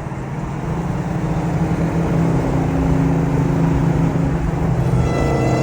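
Car engine and road noise while driving, a steady low drone that grows louder about a second in. A higher steady tone joins near the end.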